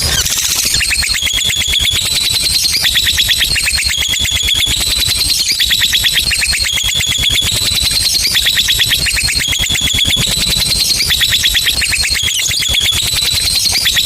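Lovebird 'ngekek': a long, unbroken run of rapid, high-pitched chattering notes, its pitch stepping up and down in a repeating pattern, beginning just after the start.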